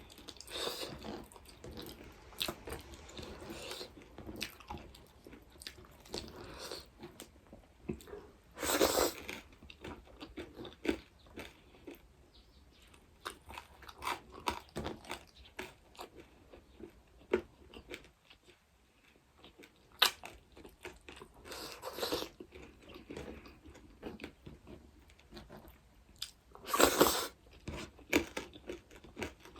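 A person chewing and crunching food close to the microphone, with many small wet clicks and a few louder noisy bursts of eating sound spread through.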